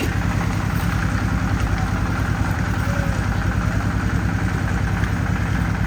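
A small engine running steadily with a low, even pulse.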